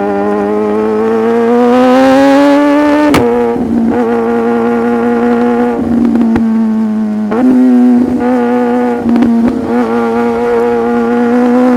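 Sport motorcycle engine accelerating, its pitch rising for about three seconds, then dropping sharply with a click as it shifts up a gear. It then holds steady revs, with a few brief dips.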